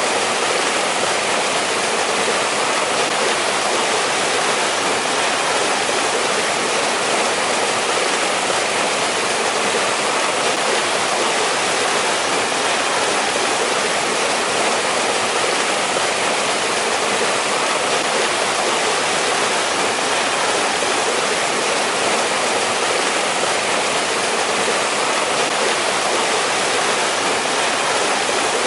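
Mountain-valley stream in winter: water rushing and splashing over rocks in a steady, even rush.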